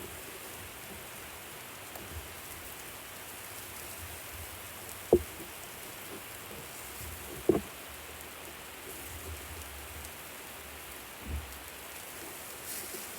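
Food sizzling steadily on a barbecue grill, with two short sharp knocks about five seconds in and again two and a half seconds later.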